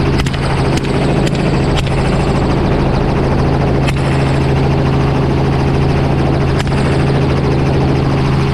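Helicopter in flight, its engine and rotor drone steady and loud, with sharp cracks of suppressed rifle shots: four in quick succession in the first two seconds, then one about four seconds in and another near seven seconds.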